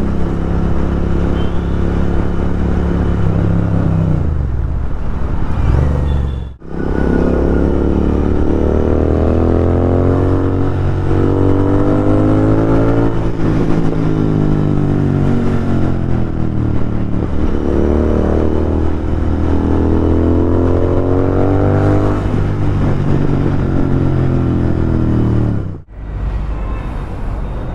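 Royal Enfield Continental GT 650 parallel-twin engine running through a loud Thrive aftermarket exhaust. Its pitch rises and falls again and again as the bike accelerates and slows. The sound drops out briefly twice, once about six seconds in and once near the end.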